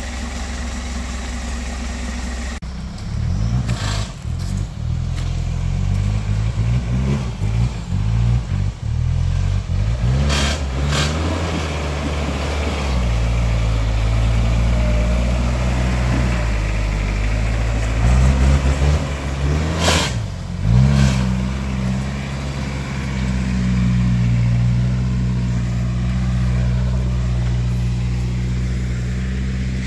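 Off-road 4x4 engine revving up and down as it climbs a rough trail, with several sharp knocks along the way. The engine settles into a steadier pull near the end.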